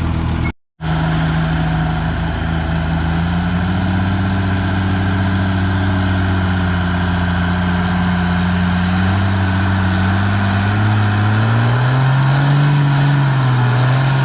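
Diesel engine of a Cummins-swapped Farmall 560 tractor pulling the weight sled under heavy load, a steady drone whose pitch climbs a little and then rises higher near the end before falling away as the pull ends. The sound cuts out briefly about half a second in.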